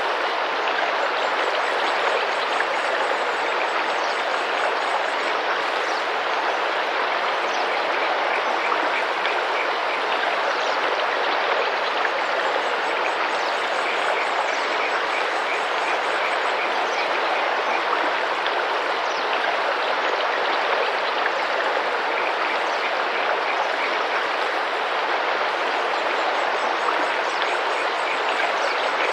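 Tropical rainforest river running and splashing steadily, with short, faint bird calls repeating over the water every second or two.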